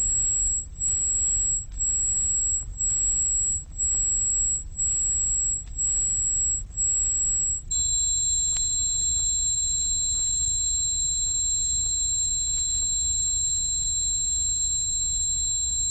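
Electronic synthesizer simulation of tinnitus: a very high pure tone pulsing on and off about once a second, then holding steady about eight seconds in, when a second, lower high tone joins it. A low rumble runs underneath.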